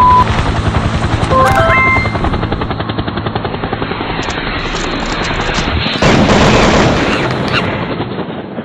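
Comedy sound effects: a rapid, even rattle of machine-gun-like fire with a few short rising beeps about a second and a half in, then a louder blast about six seconds in that fades away.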